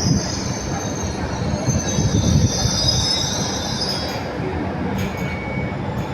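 Train running along the station track: a steady rumble with a high-pitched squeal of steel wheels on the rails, the squeal fading away about four seconds in.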